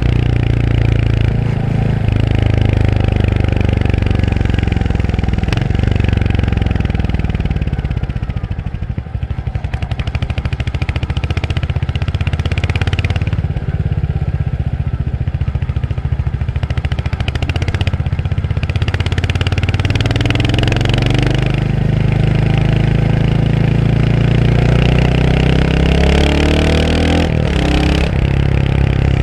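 Royal Enfield Hunter 350's single-cylinder engine running under way. It eases off to a low, slower beat about eight seconds in, then picks up again, and the revs rise in sweeps near the end.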